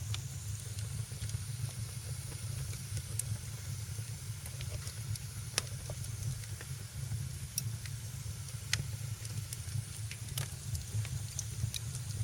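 Wood fire crackling in a fireplace: sharp irregular pops, roughly one a second, over a steady low rumble and a soft hiss.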